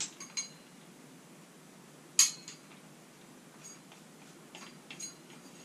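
Light metallic clicks and clinks of a saw blade and tool parts being handled and fitted to a cutting tool, with one sharper click about two seconds in.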